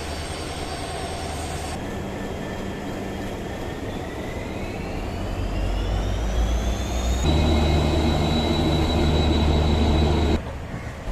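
Train running sounds in several short clips cut together: a steady rumble, then a whine rising in pitch, then a louder steady run that cuts off abruptly near the end.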